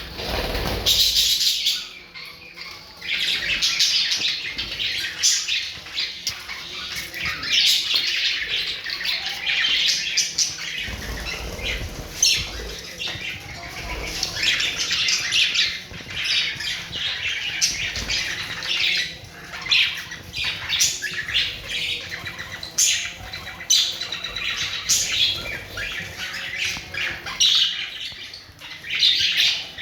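A group of parrots calling, with many short, high squawks overlapping almost without pause.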